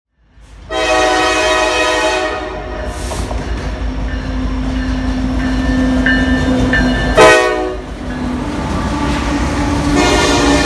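Freight train with diesel locomotives passing close by, its locomotive horn sounding a blast about a second in, a short, loudest blast around seven seconds, and another starting near the end, over the steady rumble of the train.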